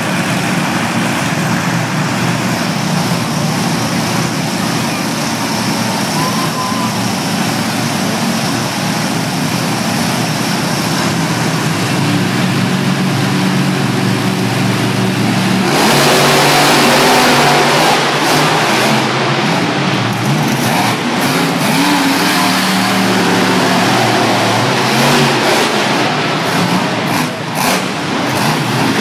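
Monster truck engines running and revving loudly, with a rough steady roar throughout. The sound jumps louder about sixteen seconds in as the revving picks up.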